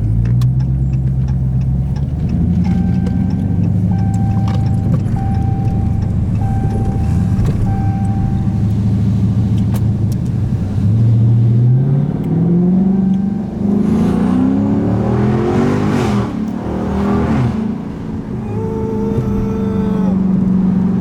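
Dodge Scat Pack's 392 Hemi V8 running with a loud exhaust; about eleven seconds in its pitch climbs steeply as it revs, then falls back and holds steady.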